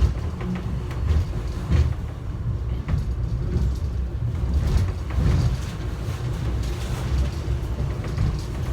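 Airport subway train running, heard from inside the car: a steady low rumble with faint rattles and clicks.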